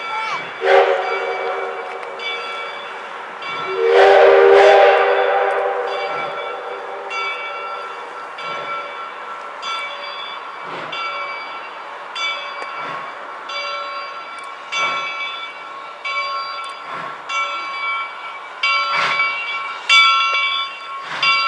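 A train sounds a short horn or whistle chord at the start and a louder, longer one about four seconds in that fades away over a few seconds. A bell rings steadily behind it, with faint knocks about every two seconds.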